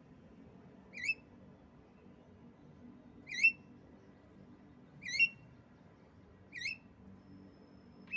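Female Javan myna giving short, sharp rising calls, five in all, one every second and a half to two seconds.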